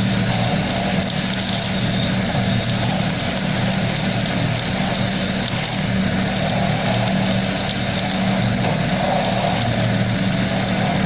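Sandblasting: a steady hiss of compressed air and abrasive with a constant low mechanical hum underneath.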